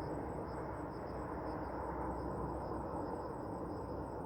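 Insects chirping, a high-pitched pulse repeating about three times a second, over a steady low rushing background.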